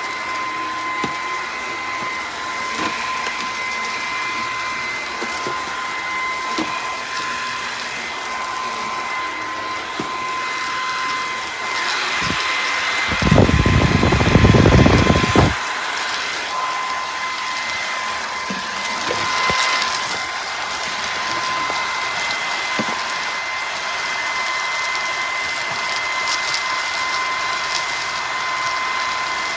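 Bissell PowerClean FurGuard cordless stick vacuum running with a steady motor whine, with a louder burst of deep noise lasting about two seconds near the middle.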